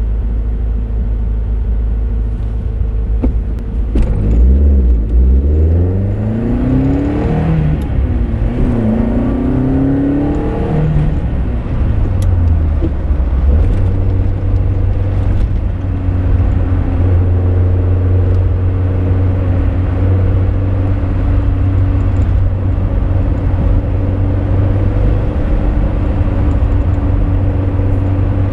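Lotus Europa Twin Cam's twin-cam four-cylinder engine heard from inside the car: running steadily, then accelerating from about four seconds in with the revs climbing, dropping back at a gear change and climbing again, before settling into a steady cruise.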